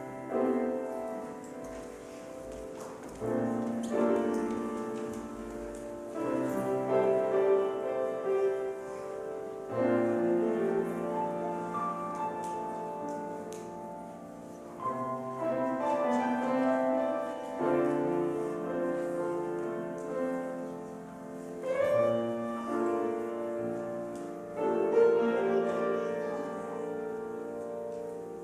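Piano music: held chords that change every few seconds.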